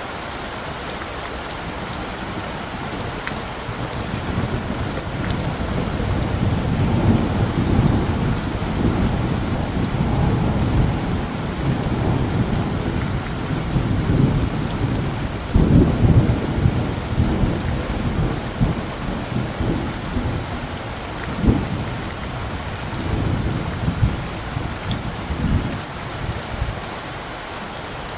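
Steady rain falling, with a long roll of thunder that builds a few seconds in, swells loudest about halfway through with a few further surges, and dies away near the end.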